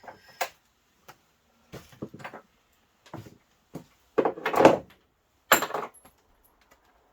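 A string of knocks and clatters from tools and parts being handled, with the loudest, longer clatters about four and a half seconds in and again just after five and a half seconds.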